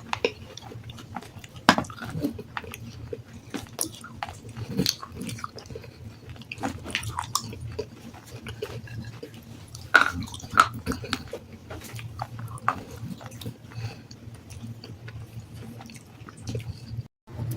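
Close-up chewing and crunching of black sandstone, with irregular sharp crackles and snaps as the pieces break between the teeth, over a low steady hum. The sound cuts out for a moment near the end.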